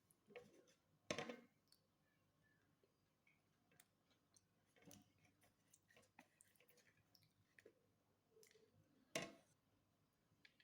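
Close-miked eating sounds: scattered soft clicks, with three louder brief crunches, about a second in, near five seconds and near nine seconds.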